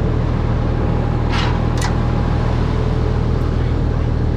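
Diesel engine of heavy earthmoving equipment running steadily with a deep drone. Two short sharp sounds come close together about a second and a half in.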